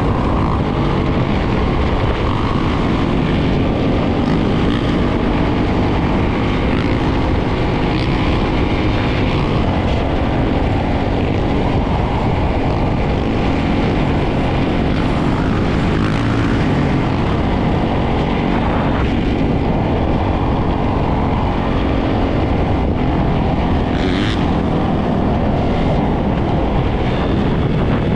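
Many dirt bike and ATV engines running together in a large group ride, a dense, steady, loud buzzing drone of overlapping engines.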